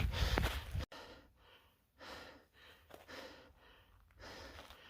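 A hiker breathing hard: a series of short, soft breaths. These follow a louder rustling noise that cuts off abruptly about a second in.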